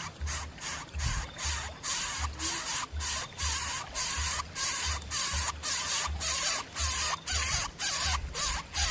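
Rapid, repeated rasping hisses, about two a second, growing louder toward the end, over the low beat of background music.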